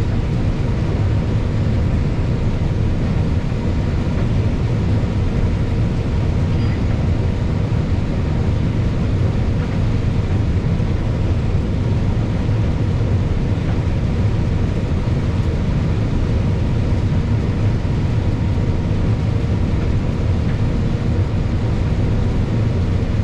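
Combine harvester running steadily while harvesting corn: a continuous, unchanging engine and machinery drone.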